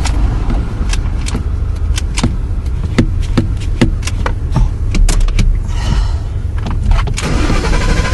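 Ford F-150 pickup's engine being cranked on a hard start while the gas pedal is pumped, with a steady low rumble and many irregular sharp clicks. About seven seconds in it catches and begins running.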